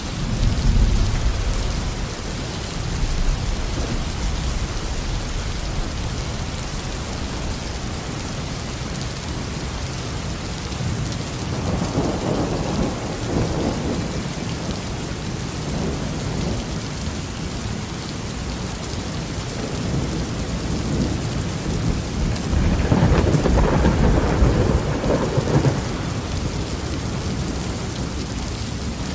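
Heavy rain pouring steadily with rolls of thunder: a short rumble at the start, another swell about twelve seconds in, and the loudest, longest roll a little after twenty seconds.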